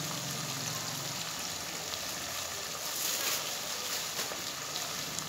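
Meat and masala sizzling steadily in a pot, the sizzle growing louder for a moment about three seconds in as yogurt is added.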